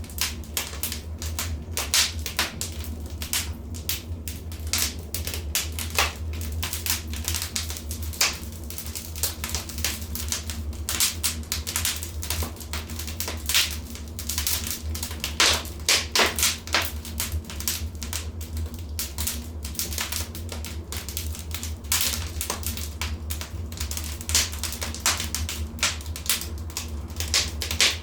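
Wood fire crackling in a fireplace: irregular sharp pops and snaps, some quite loud, over a steady low hum.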